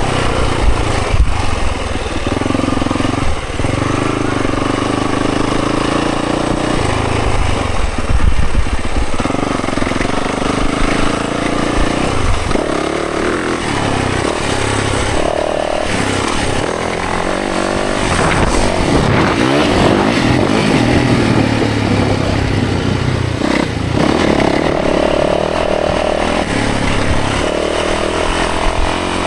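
Dirt bike engine revving hard, its pitch climbing and dropping again and again as the rider works the throttle and shifts gears.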